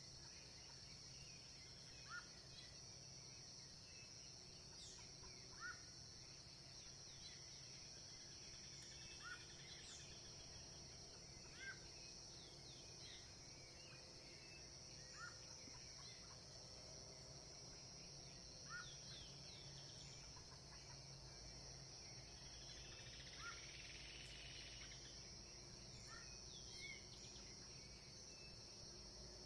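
Faint birdsong: a short rising call repeated about every three to four seconds, with scattered smaller chirps, over a steady high-pitched hum in the background.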